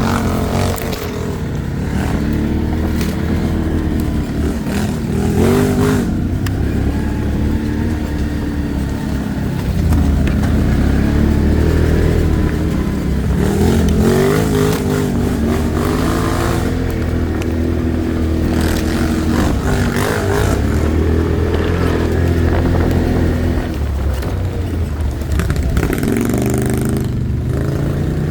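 ATV engine running as it is ridden, its revs rising and falling again and again, with occasional knocks and rattles.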